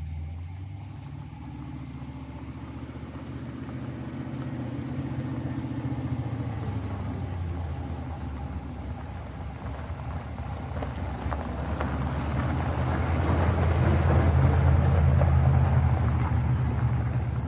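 Old first-generation Dodge Ram pickup being driven, its engine running steadily with road noise over it. The sound grows louder about two-thirds of the way in and eases a little near the end.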